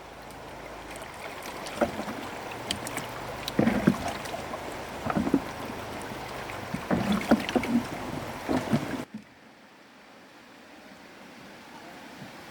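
Water splashing with irregular knocks and thuds over a steady rush; about nine seconds in it cuts suddenly to a quieter, steady rush of water.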